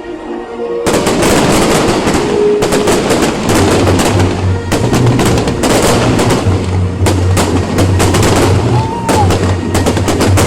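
Fireworks going off: about a second in, a loud, dense crackle of rapid bangs starts and keeps on without a break.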